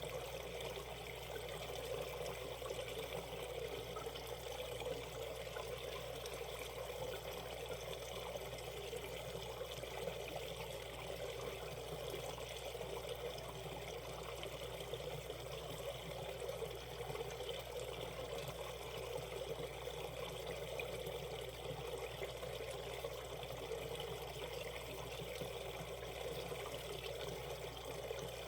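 Mountain stream water rushing and burbling steadily over rocks in shallow rapids.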